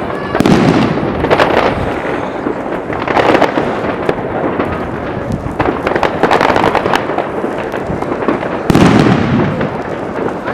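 Fireworks and firecrackers going off in a dense barrage: many sharp bangs and crackles, with louder clusters of blasts every few seconds.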